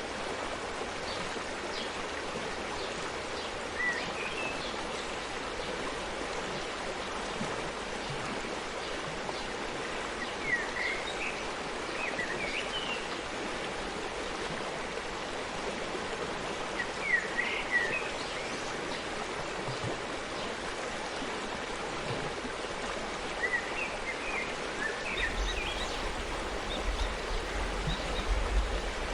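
Forest stream running steadily, with short bird chirps now and then over the water, and a low rumble near the end.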